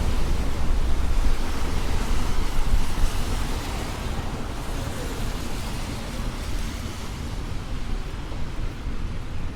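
Traffic on a wet city street: a steady rushing hiss over a low rumble, louder for the first few seconds and easing about four seconds in.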